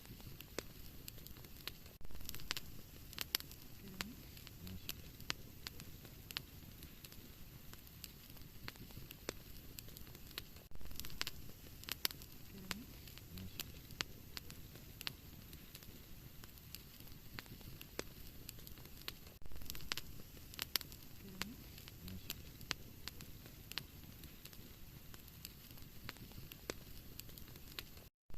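Wood fire crackling in a fireplace: frequent sharp pops and snaps over a steady hiss, with louder flurries of crackles every few seconds. There is a brief dropout to silence near the end.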